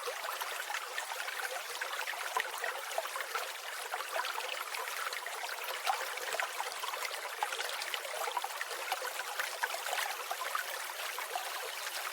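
Water of a stream trickling, a steady babbling rush with many small splashes and no music or voice over it.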